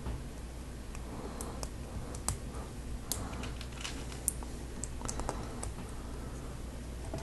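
Small plastic Lego Technic pieces clicking as they are handled and pressed together: irregular sharp clicks over a low steady hum.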